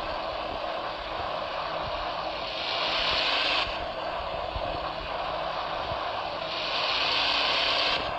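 Car driving, with steady road and engine noise heard from inside the cabin. A higher hiss about a second long comes back about every four seconds, twice in these seconds.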